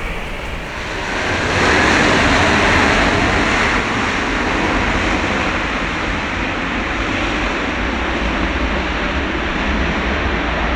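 Jet noise from a Boeing 767-300ER airliner landing: a loud, steady rush that swells about a second and a half in and then holds.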